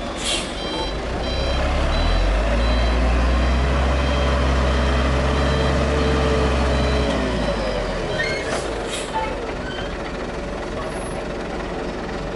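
Heavy construction vehicle with its reversing alarm beeping and its diesel engine rising to a loud steady drone, then dropping back about seven seconds in. There are short hisses of air near the start and twice around eight and a half seconds in.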